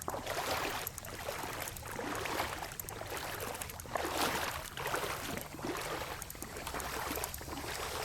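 Legs wading through floodwater, a swishing splash with each stride, about one a second.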